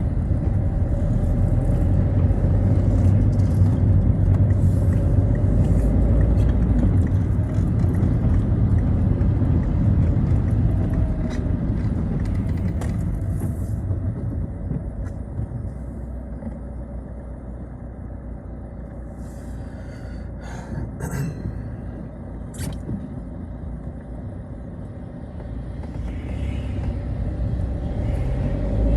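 Citroën Xsara driving on a wet road, heard from inside the car: a low engine and tyre rumble that is loud through the first half, fades as the car slows around the middle, and rises again near the end. A few short, sharp clicks come about two-thirds through.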